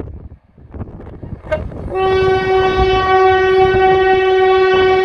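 ScotRail InterCity train's horn sounding one steady note for about three seconds, starting about two seconds in, over the rumble of the passing train: the driver's friendly toot of greeting.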